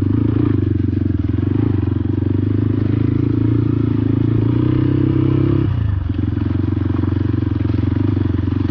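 Motorcycle engine running under way, its note rising a little and then dropping suddenly about six seconds in before settling back to a steady note.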